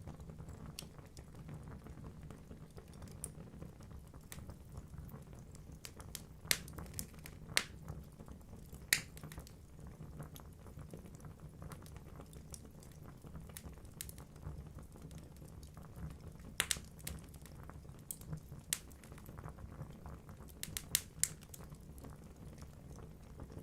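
Wood fire burning in a fireplace: a low steady rumble of flames with irregular crackles and a few sharp pops from the burning logs.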